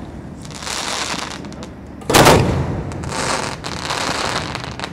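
Aerial fireworks shells going off at close range: one loud boom about two seconds in, with crackling before and after it.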